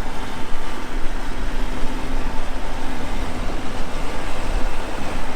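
Tractor engine running steadily, with wind rumbling on the microphone.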